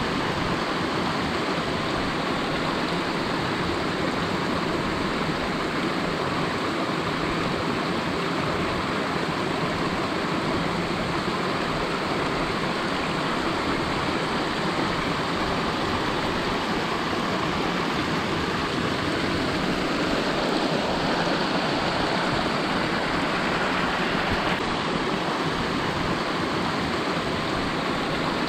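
Waterfall in spate: a steady, unbroken rush of falling water.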